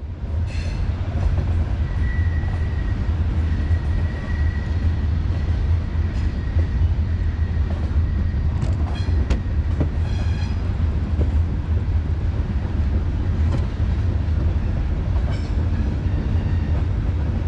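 Train passing: a loud, steady low rumble with light clatter, and a thin high whine for a few seconds near the start.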